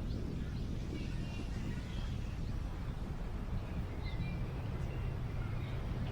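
Park ambience: wind on the microphone as a steady low rumble, with short, scattered bird chirps above it.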